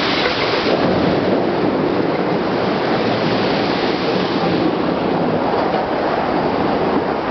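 Heavy rain and strong squall winds of a severe thunderstorm: a loud, steady rush of noise.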